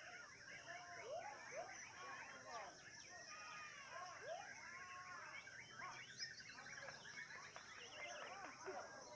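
Many caged songbirds, white-rumped shamas and lovebirds, singing at once: a dense tangle of overlapping rising and falling whistles and chirps, over a steady high hiss.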